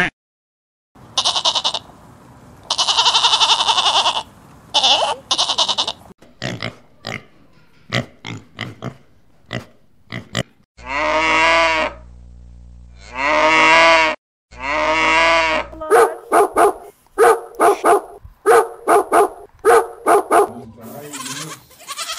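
A run of farm animal calls from several animals in turn. First come pitched calls, then short grunts. About halfway through there are three long drawn-out calls of a second or more each, and near the end a quick series of short calls.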